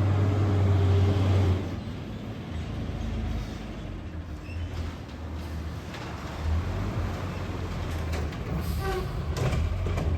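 Garbage truck engine running, loud for the first second and a half and then easing to a lower level, with a short squeak and light clicks near the end.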